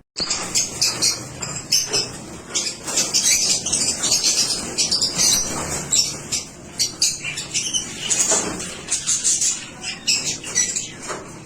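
A flock of lovebirds chirping and squawking together in a cage, a dense, continuous chatter of short, shrill calls.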